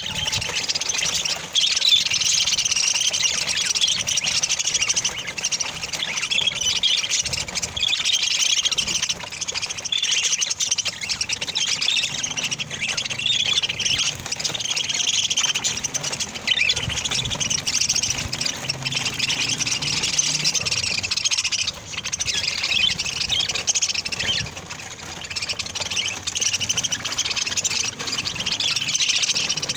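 A flock of Australian parrots chattering and chirping without a break, many high calls overlapping.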